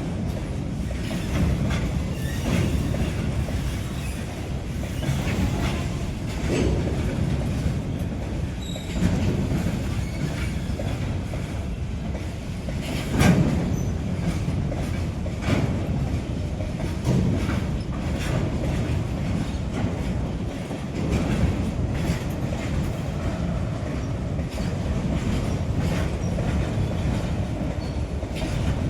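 Long rake of BCNA covered freight wagons rolling past, a steady low rumble with repeated knocks and clatter of wheels over the rail joints.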